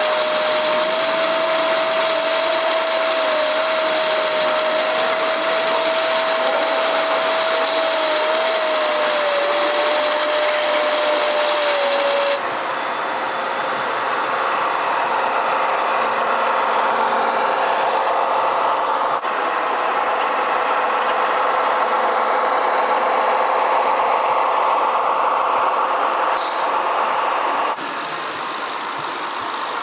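Small electric motors and gearboxes of RC construction models running, a steady whirring with a held whine for the first twelve seconds; the sound changes abruptly about 12 and 19 seconds in and drops a little near the end.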